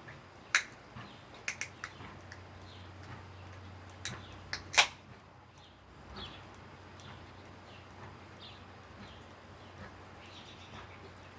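A handful of sharp clicks or knocks, the loudest about five seconds in, over faint repeated short bird chirps and a low steady hum.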